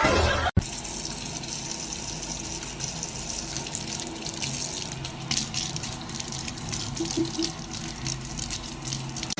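Steady running water, like a tap running, starting about half a second in after a brief cut.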